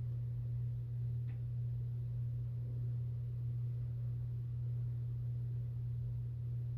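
A steady low hum: one unchanging low tone with no other sound of note.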